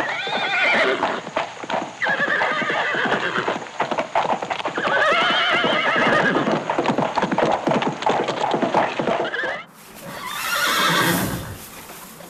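Horses whinnying over the clatter of hooves: three whinnies with a quavering pitch in the first seven seconds. Then, after an abrupt cut, one more whinny falls in pitch near the end.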